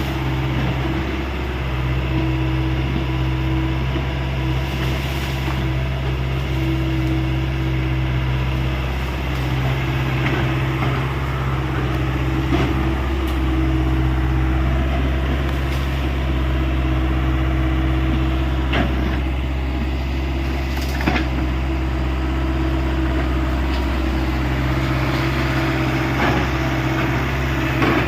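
Hyundai 85 excavator's diesel engine running steadily under work, with a few sharp knocks now and then.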